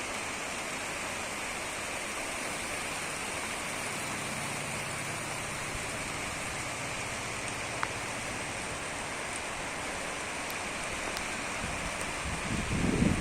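Steady rain falling, an even hiss, with one sharp tick about eight seconds in. Near the end, wind starts buffeting the microphone.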